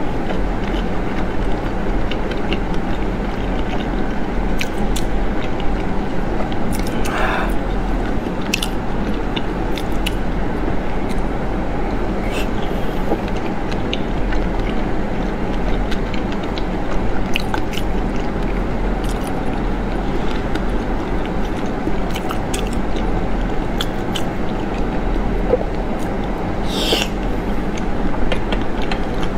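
Close-miked chewing of raw salmon topped with fish roe: soft, wet mouth sounds with scattered small clicks over a steady background hiss and low hum.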